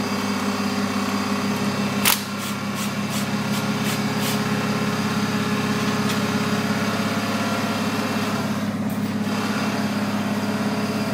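An engine running steadily with an even hum. About two seconds in there is a sharp metallic click, followed by a quick run of lighter clicks, about three a second, for two seconds.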